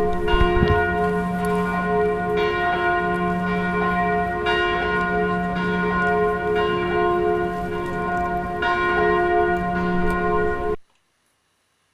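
Field recording of church bells ringing: a sustained wash of overlapping bell tones that swell and fade, cutting off abruptly near the end.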